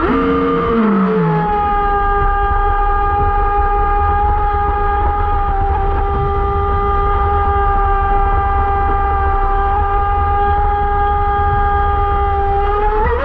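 Electric motor of a radio-controlled boat whining at a steady high pitch, held at constant throttle. The pitch dips slightly about a second in, holds for about eleven seconds, then changes right at the end. A low rumble runs underneath.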